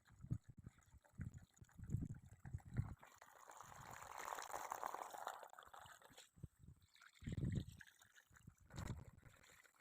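Water being poured while washing food, swelling and fading over about three seconds in the middle. Several dull, low thumps come before and after it.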